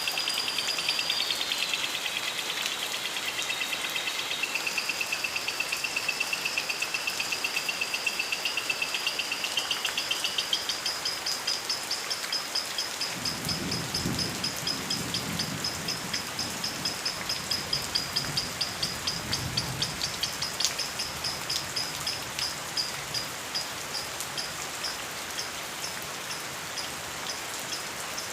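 Steady rain falling, with a high-pitched chirping from lovebirds repeating several times a second throughout. A low rumble rises about halfway through and fades a few seconds later.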